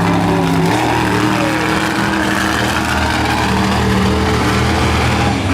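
A monster truck's engine running loud and steady, its pitch holding and then stepping to a new level every second or so.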